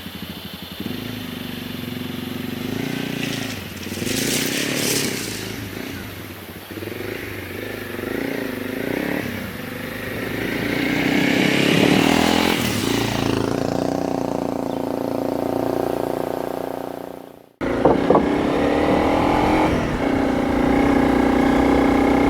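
Honda CRF300 Rally's single-cylinder engine running on the move, its pitch rising and falling as it accelerates and eases off. It drops out briefly near the end, then runs on steady.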